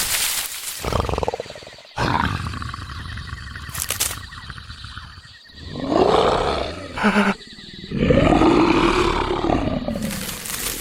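A big cat, such as a tiger or lion, roaring and growling several times, each call rising and then falling in pitch.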